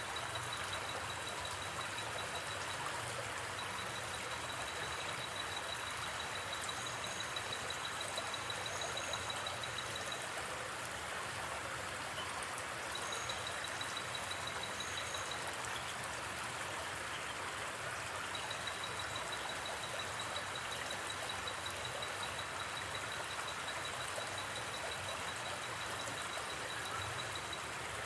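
River water flowing steadily, with a high, fast-pulsing trill of a night insect that stops and starts in long stretches and a few short higher chirps.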